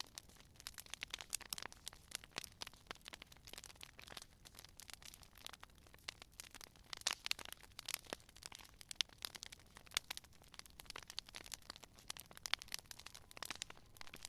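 Wood fire crackling: a dense, irregular run of small sharp pops and snaps from burning logs, with a few louder pops scattered through.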